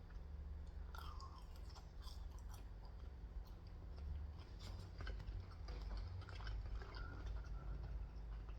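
Faint chewing of food, with scattered small wet clicks and smacks from the mouth, over a low steady hum.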